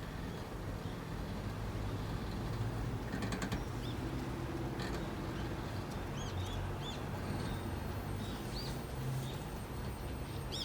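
Toshiba RAS-5066AD air conditioner running with a steady low hum. A few short, high chirps come in during the second half.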